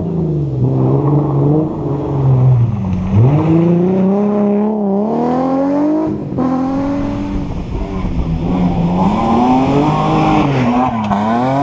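Rally car engine driven hard, its pitch climbing under acceleration and dropping sharply at gear changes or lifts, then climbing again.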